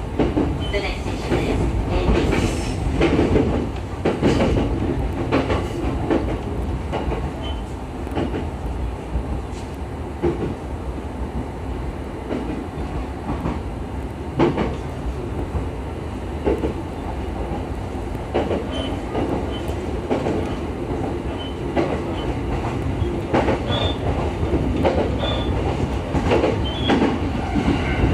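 Running noise of a JR East E131 series electric train heard from inside the car: steady wheel and motor noise with irregular clicks and knocks from the wheels over rail joints and points, one knock louder about halfway through.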